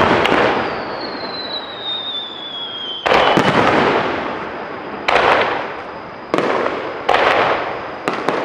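Aerial firework shells bursting overhead: five sudden booms a second or two apart, each trailing off into crackle. A high thin whistle falls slowly in pitch through the first three seconds.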